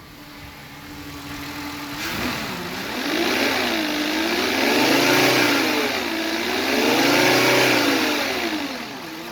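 A 2013 Volkswagen Passat engine with 121,000 miles idling steadily, then revved up three times and let fall back each time, settling to idle again near the end.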